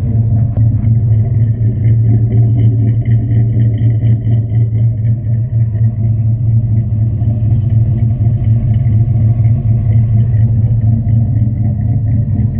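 Dodge 5.2 L 318 Magnum V8 running steadily at idle through a Flowmaster 40 muffler, a deep, even exhaust rumble.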